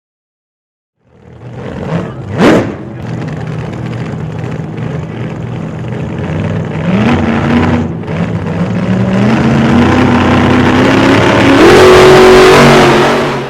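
Turbocharged Hemi V8 of a Dodge Ram 1500 pickup accelerating hard under boost. Its pitch climbs in steps and it grows louder toward the end, with a brief sharp rising sweep near the start, before it cuts off suddenly.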